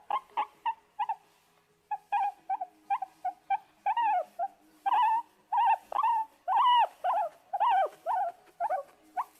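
An animal giving a rapid, irregular series of short, high yelping calls. Some calls bend up and then fall in pitch.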